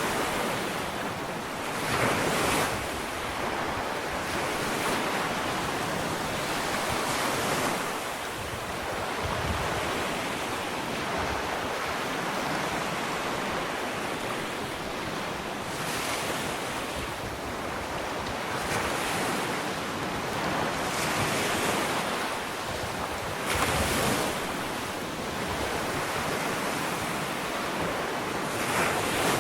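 Small ocean waves breaking and washing up a sandy beach, a steady rushing surf with a wave cresting every few seconds, about six swells across the stretch. Some wind rush on the microphone.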